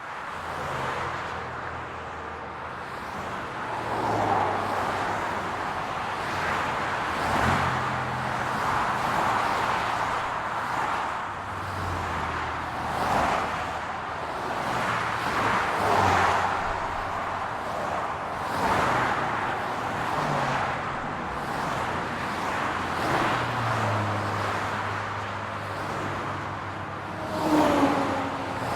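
City road traffic: a steady hum of car engines and tyre noise, swelling every few seconds as cars pass one after another. Near the end a louder car passes with a short falling tone.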